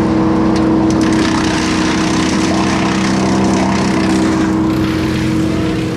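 Engine running steadily at a constant speed, with a hissy rattle over it that comes and goes in the middle.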